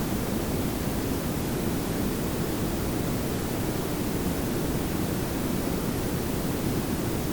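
Layered pink and brown noise, a steady synthetic hiss weighted toward a low rumble, unchanging throughout.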